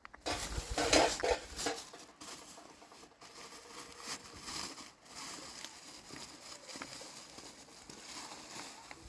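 Kitchenware being handled: clattering and rustling, loudest in a cluster about a second in, then lighter and irregular.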